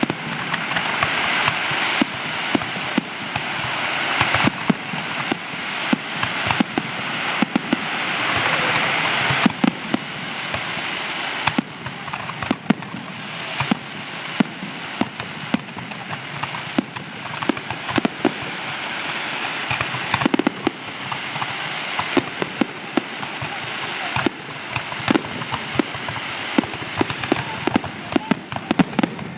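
Fireworks going off in a display: a dense crackling hiss of bursting shells, heaviest for about the first ten seconds, with many sharp bangs throughout.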